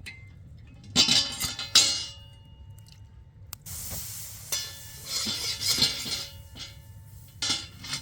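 Dishes and utensils clinking: a few sharp, ringing clinks, with a stretch of hissing in the middle.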